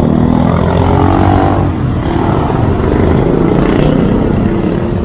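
Road traffic on a highway heard from a moving bicycle: a steady, loud low rumble of passing motor vehicles and road noise.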